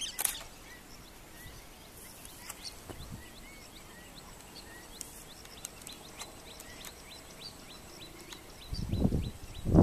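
A small bird calling over and over in the background, short high chirps about two or three a second, over faint outdoor ambience. Near the end, low muffled thumps are the loudest sound.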